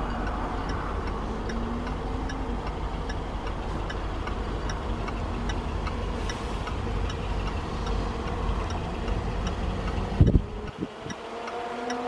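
Steady light ticking, about two ticks a second, over a low rumble. A single thump comes about ten seconds in, after which the rumble drops away.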